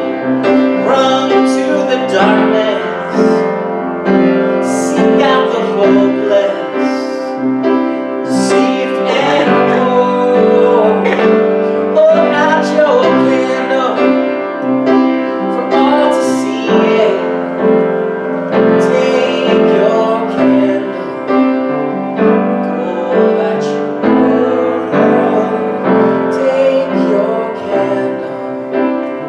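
Piano playing sustained chords, with singing over it.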